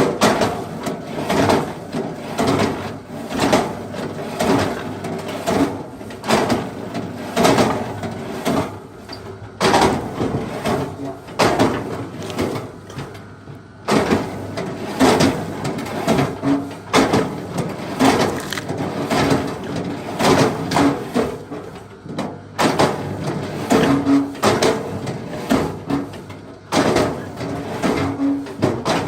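Axe chopping into wood: a run of sharp, irregular knocks, about two a second, broken by short pauses now and then.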